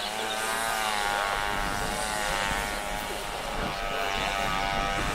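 Small hand-crank-started engine running steadily with a buzzing note whose pitch wavers slightly.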